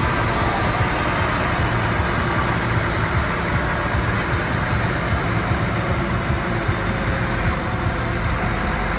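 Heavy diesel engine of earth-moving machinery running steadily at a low, even pace.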